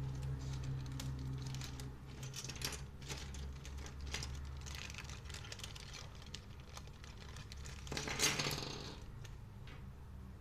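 Packaging and small accessories being handled: plastic crinkling with scattered light clicks, and a louder rustle about eight seconds in. A low steady hum sounds under the first couple of seconds.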